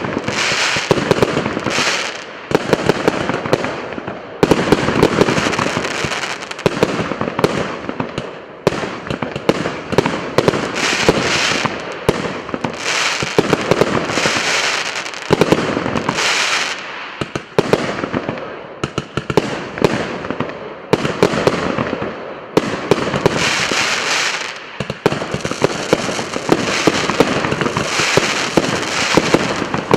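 99-shot firework battery (cake) firing continuously: rapid launch thumps overlapped by crackling and popping bursts, swelling and easing in waves every couple of seconds.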